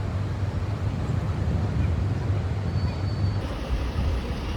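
Steady low rumble of a vehicle in motion, with a faint even hiss above it.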